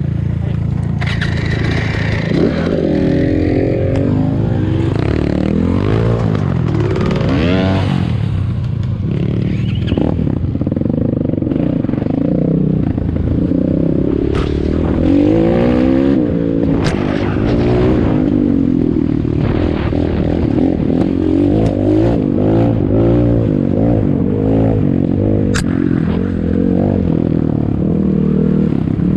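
ATAKI DR 250 enduro motorcycle engine revving up and down over and over as it is ridden off-road, with knocks and clatter scattered through it.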